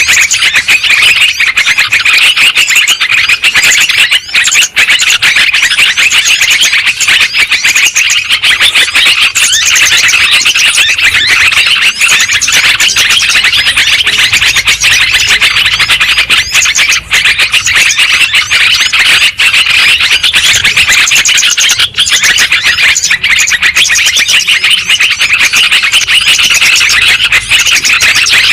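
Loud, unbroken chorus of many overlapping yellow-vented bulbul chirps and chattering calls, a lure call recording played to draw in and stir up bulbuls.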